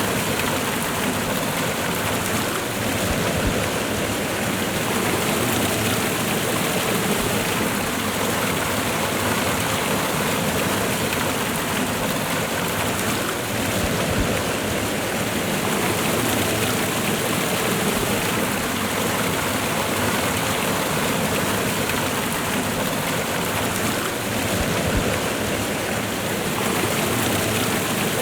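Waterfall and fast-flowing river water, a steady, dense rushing.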